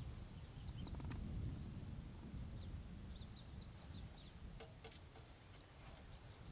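Small birds chirping in the bush: faint, short, high calls repeated every so often over a low background rumble.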